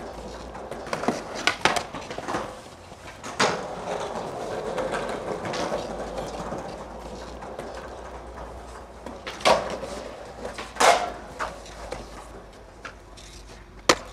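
Scattered sharp knocks and clacks over a steady background noise, the loudest about three and a half, nine and a half and eleven seconds in.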